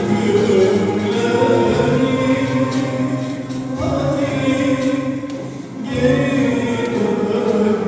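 Turkish art music song in makam Kürdilihicazkâr: music with singing voices, continuing with a brief dip in loudness a little before the end.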